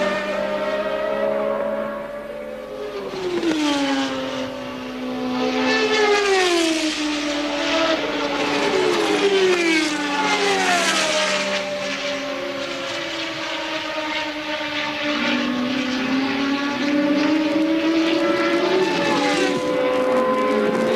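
1983 Formula One cars racing, several engine notes at once. Their pitch rises and falls, with repeated downward sweeps as cars pass or change gear.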